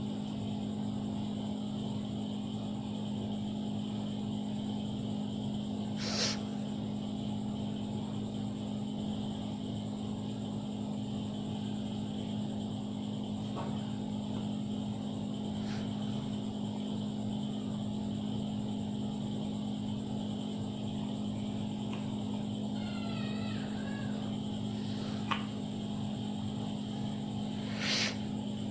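A steady low mechanical hum, like a motor or fan, with two short noises, one about six seconds in and one near the end, and a brief warbling call a few seconds before the end.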